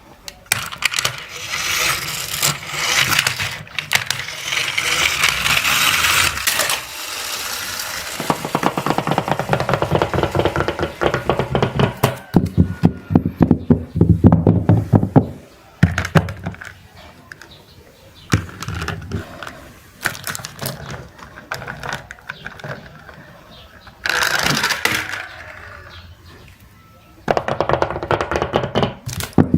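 Clattering and rattling of small hard objects, in several bursts of rapid clicks with short pauses between them.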